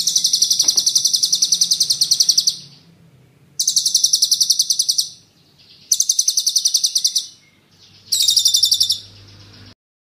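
Songbird training recording ('masteran'): four fast rolling trills of sharp, high repeated notes, about fifteen notes a second. The first runs about two and a half seconds and the rest are shorter, with brief pauses between them.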